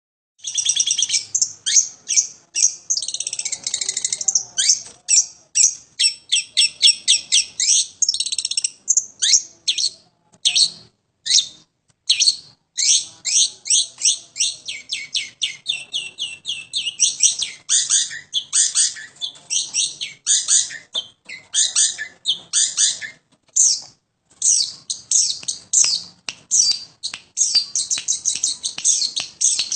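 Long-tailed shrike (pentet) singing vigorously: a fast, continuous chatter of short, high notes in long runs, broken by brief pauses.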